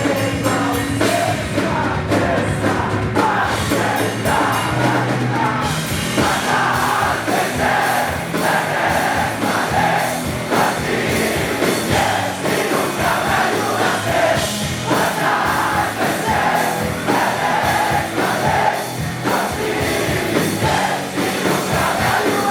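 A band playing live with sung vocals. The sound grows brighter and fuller about six seconds in.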